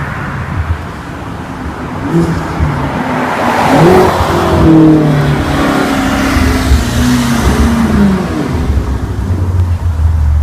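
Twin-turbo V8 sports car accelerating hard, its exhaust note rising in pitch and then dropping back several times as it pulls through the gears. It is loudest about halfway through.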